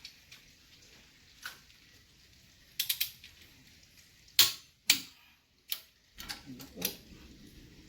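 Wheel lug nuts being tightened to 90 foot-pounds with a click-type torque wrench: a series of sharp clicks at uneven intervals, the loudest pair about four and a half and five seconds in.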